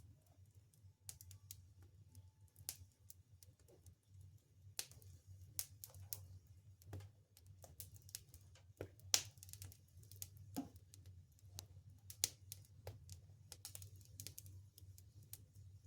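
Wood fire crackling: irregular small pops and snaps, a few sharper ones standing out, over a low steady hum.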